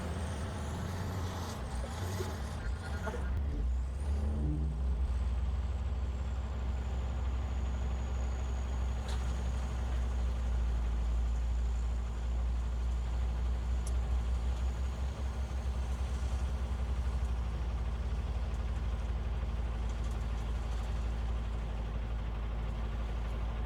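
Heavy diesel engine running steadily with a deep low rumble and a faint high whine above it, with a few brief sounds in the first few seconds.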